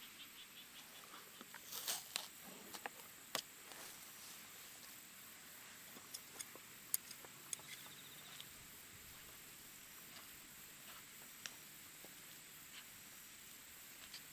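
Scattered sharp clicks and taps over a faint steady hiss. They come in clusters about two to four seconds in and again around six to eight seconds.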